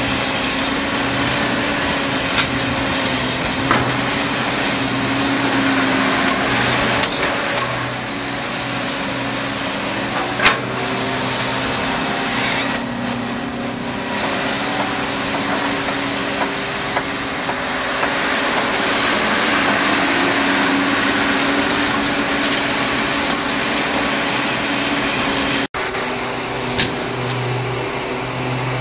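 John Deere backhoe's diesel engine running at work, its pitch rising and falling as the machine works, with scattered sharp knocks and a short clattering patch about halfway through.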